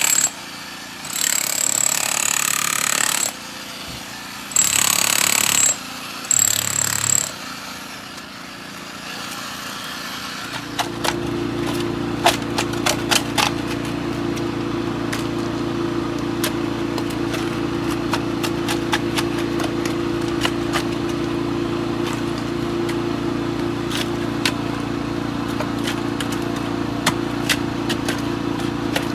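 Jackhammer run in a few short bursts, then hammering continuously from about ten seconds in.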